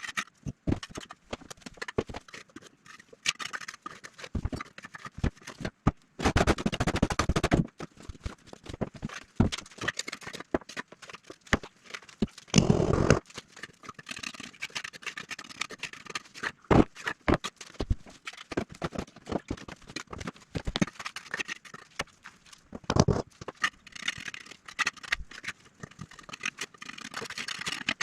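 Irregular knocks and clicks of hand work on the fireplace top, with longer scraping passes about six seconds in, near thirteen seconds, and around twenty-three seconds.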